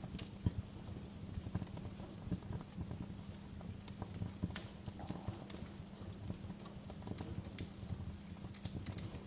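Wood fire crackling in a fireplace: a steady low rumble of the flames with frequent irregular snaps and pops.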